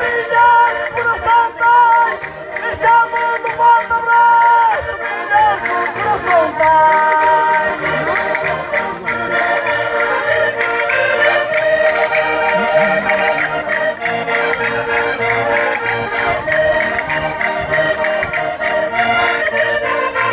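Accordion playing a traditional folk dance tune in sustained chords, with melodic runs and a few sliding notes in the first few seconds.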